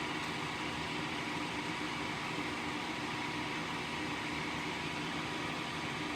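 Steady background hiss with a faint low hum, even throughout and with no distinct events.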